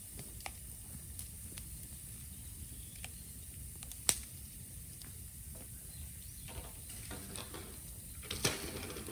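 Bonfire of raw green bamboo crackling, with scattered small snaps, a sharp pop about four seconds in and another burst of crackling near the end.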